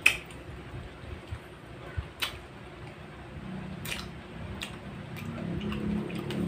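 Mouth-close chewing of fresh red grapes: soft wet squishing with scattered sharp lip-smacking clicks.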